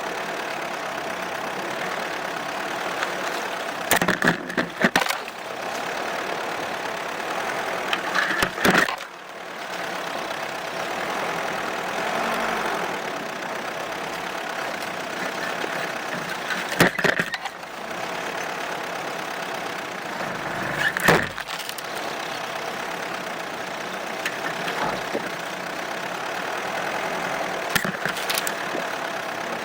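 Opel Monterey SUV driving off-road through snow, its engine running steadily under a constant rush of road and wind noise. Several sharp knocks and jolts break in now and then, around five times.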